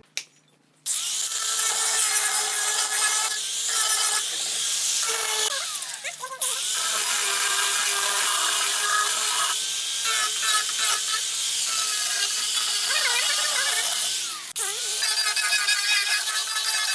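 Electric power tool working wood, a steady whining hiss with a few brief rises and falls in pitch. It comes in three stretches that start abruptly about a second in, then about 6.5 and 14.5 seconds in.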